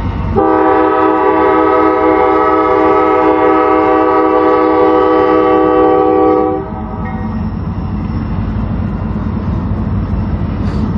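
Locomotive air horn sounding one long blast of about six seconds, several notes held together as a chord, then cutting off. A steady low rumble of the train runs underneath.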